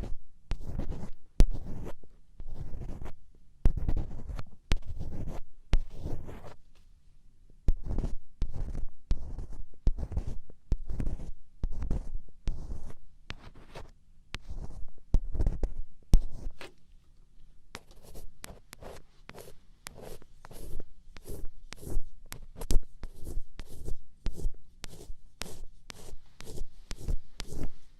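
Black ear pick scraping and scratching in close-miked ear-cleaning ASMR: irregular scratchy strokes with low rumbles. In the last ten seconds the strokes turn quicker and crisper, about two a second.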